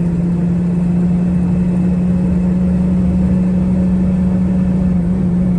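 Box truck's engine and road noise heard from inside the cab while driving, a steady drone with a constant low hum.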